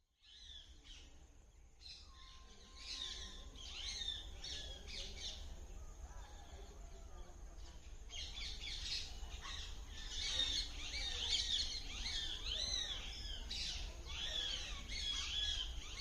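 A litter of young puppies whining and squeaking, many short, high-pitched, overlapping cries that rise and fall, growing busier about halfway through.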